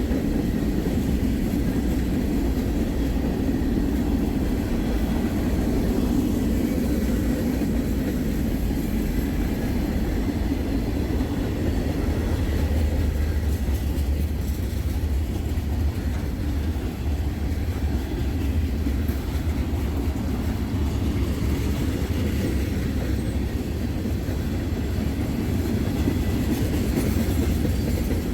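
Freight train cars rolling past at close range: a steady rumble of steel wheels on the rails, with some clickety-clack over the rail joints.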